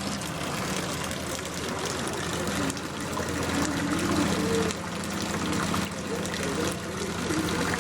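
Rain and floodwater running in a street flooded by a downpour: a steady, even wash of water noise, with a steady low hum under it.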